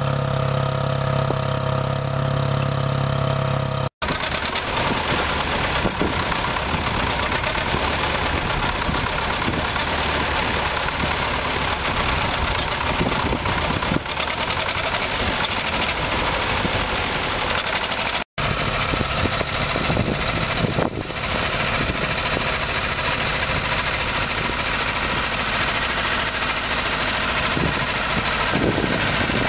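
Antique tractor engines running steadily. The first few seconds carry a clear, even engine note, then a rougher, noisier engine sound follows. The sound cuts out for an instant twice, about four seconds in and again past the middle.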